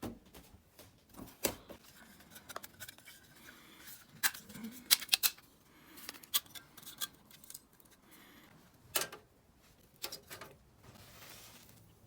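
Irregular light clicks, taps and clinks of camp cooking gear and ingredients being handled, with a cluster of sharper clicks about five seconds in and another around nine seconds.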